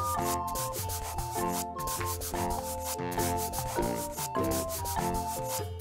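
Marker scratching on paper in quick repeated back-and-forth strokes, as a picture is coloured in, over a light melodic background tune.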